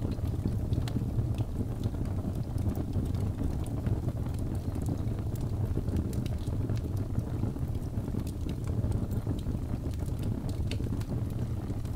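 Birch logs burning in a fireplace: a steady low rumble of flames with scattered sharp crackles and pops.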